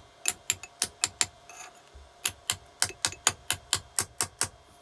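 A quick series of sharp metallic taps on the engine's camshaft, about four a second, as it is knocked home into place. A short run of taps, a brief pause, then a longer run of about ten.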